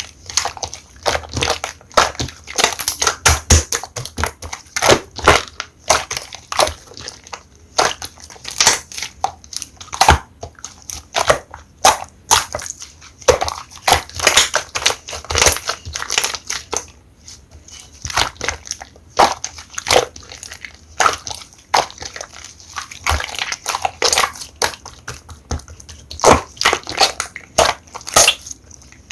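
Slime-clay being squeezed and pressed by hand, giving irregular runs of sharp sticky pops and clicks, several a second.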